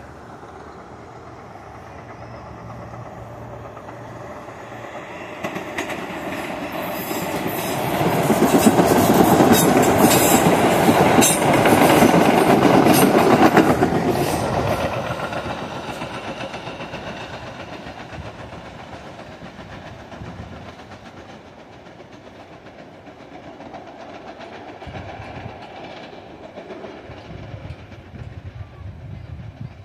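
MBTA Blue Line electric train of 0700-series cars passing by: it rises to its loudest about eight to fourteen seconds in, with sharp clicks of the wheels over the track, then fades away.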